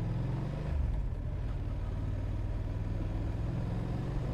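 Motorcycle engine running while riding, a steady low drone whose pitch shifts a little under a second in.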